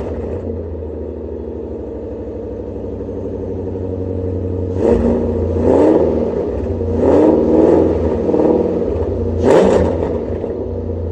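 Chevrolet Corvette C5's 5.7-litre V8 idling shortly after a cold start through long-tube headers and a Billy Boat PRT exhaust. About five seconds in, several short throttle blips rise and fall over roughly five seconds, then it settles back to a steady idle.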